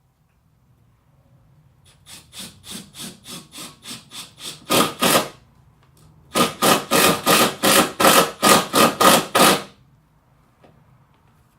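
Hand saw cutting with quick back-and-forth strokes, about three a second, in two runs with a short pause between them. The second run is louder.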